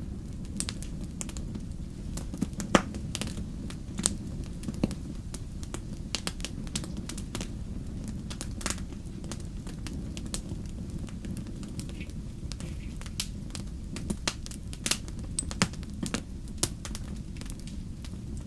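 Wood fire crackling in a fireplace: a steady low rumble of flames under irregular sharp pops and snaps, the loudest pop about three seconds in and a quick cluster of them near the end.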